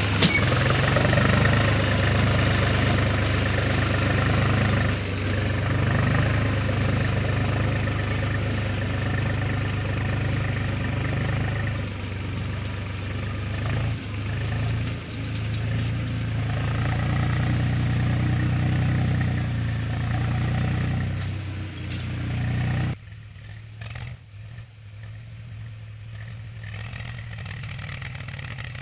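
Tractor engine running steadily. A little past two-thirds of the way through, the sound drops suddenly to a much quieter, thinner drone.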